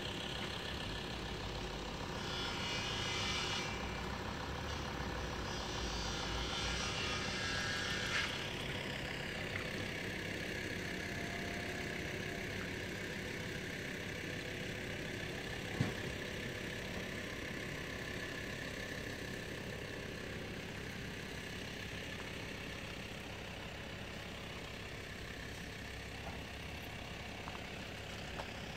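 Steady engine noise of road vehicles idling while they wait at a closed railway level crossing, with one short sharp click about halfway through.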